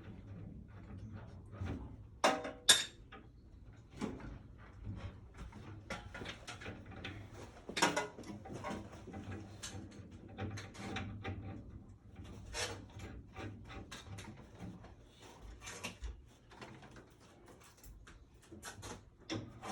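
Irregular clicks and knocks from hand work on a furnace installation, with two loud sharp knocks a couple of seconds in and another near the middle.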